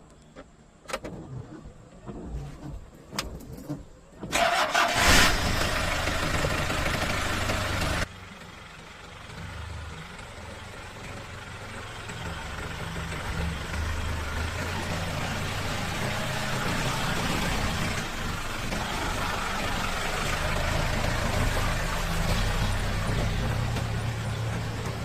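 A few clicks and knocks, then an engine starts about four seconds in and runs loudly for a few seconds. It drops back, then keeps running steadily, slowly getting louder.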